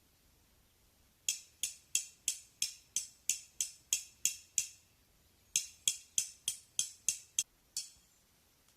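Hammer driving a tent or tarp peg into the ground: two runs of sharp, evenly spaced strikes, about three a second, with a brief pause between them.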